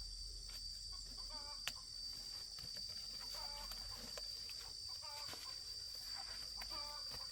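A chicken giving a short call over and over, roughly every two seconds, over a steady high-pitched insect drone. One sharp click sounds about two seconds in.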